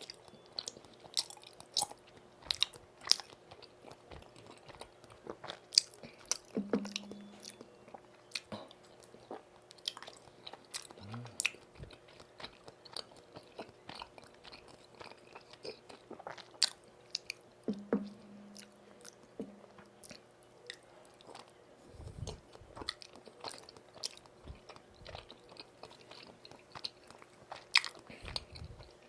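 Close-miked chewing and biting of tteokbokki, chewy rice cakes in spicy sauce, with irregular sharp mouth clicks and smacks. A brief low hum comes twice, about a quarter and about two-thirds of the way through.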